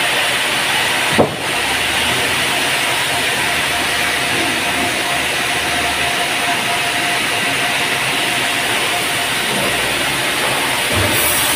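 Band sawmill running steadily as it saws a teak log: an even hiss-like machine noise with a faint steady tone, and a single sharp knock about a second in.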